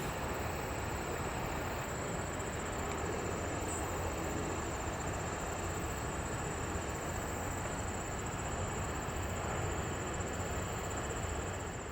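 Steady, distant rumble of jet aircraft at an airport ramp, with a thin steady high-pitched whine over it. The sound fades out near the end.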